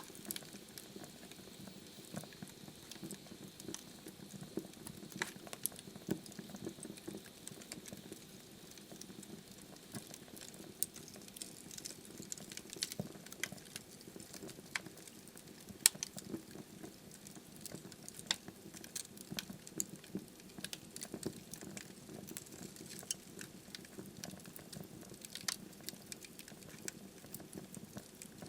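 Wood fire burning in a fireplace: a soft, low hiss of flames with frequent small crackles and pops of the burning logs, one sharper pop in the middle.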